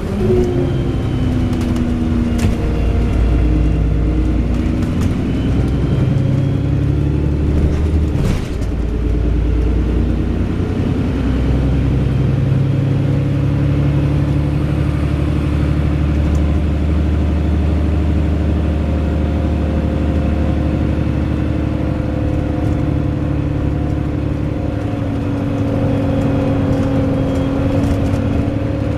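Wright Pulsar Gemini 2 double-decker bus running, its engine note dropping and rising through gear changes and acceleration, with a few sharp ticks, the clearest about two seconds and eight seconds in.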